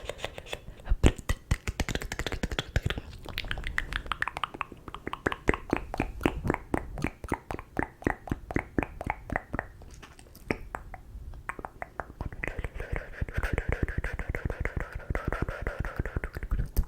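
Close-miked ASMR mouth sounds: rapid wet clicks and smacks of lips and tongue, many a second, with a stretch of breathy noise in the last few seconds.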